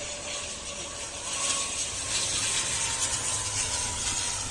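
Jet aircraft engines passing on landing approach: a loud rushing hiss that swells about a second in, with a faint whine that falls slightly in pitch.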